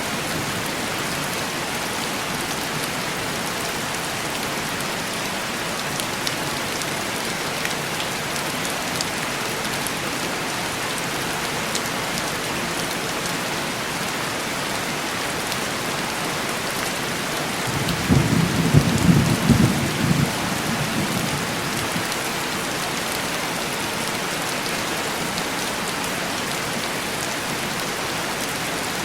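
Steady heavy rain on a window pane. A low roll of thunder comes about eighteen seconds in and lasts about three seconds.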